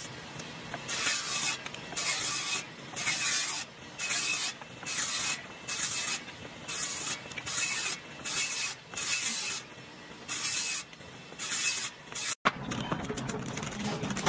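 About a dozen short hissing bursts, each about half a second long and coming roughly once a second. A cut near the end brings in a steadier, lower noise.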